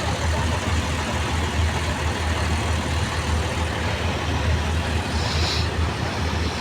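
Passenger train running: a steady low rumble under a broad rushing noise, with a short hiss about five seconds in.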